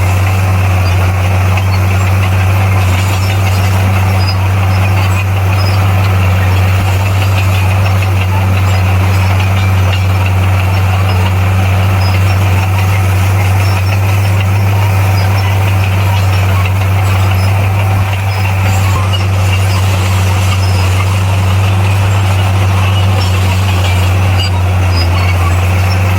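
Heavy earthmoving machine's diesel engine running steadily at one pitch, a constant low drone with a noisy rattle over it.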